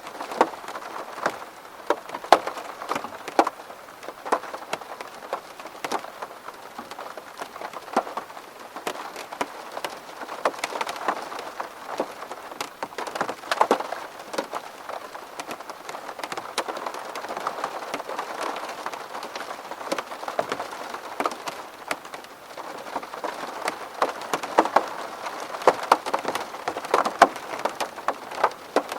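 Rain falling on a window pane: a steady patter dense with sharp, irregular taps of individual drops striking the glass.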